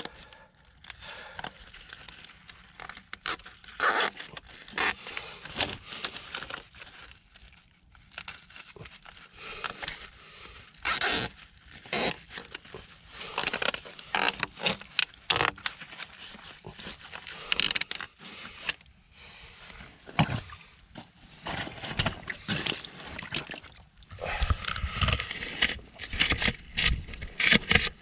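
Irregular scraping and sharp knocks of hand work, spaced unevenly, with a low rumble in the last few seconds.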